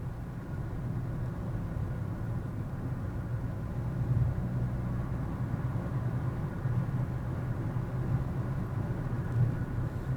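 Car being driven, heard from inside by a dashcam: a steady low drone of engine and road noise, with a few brief louder bumps.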